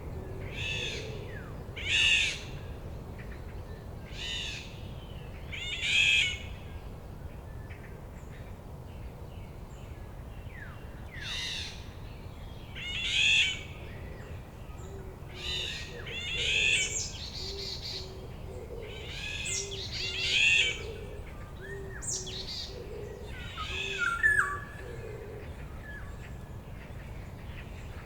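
Forest birds calling: loud, harsh calls of about half a second repeat every couple of seconds, with a fainter series of low, evenly spaced hoots underneath from about the middle on.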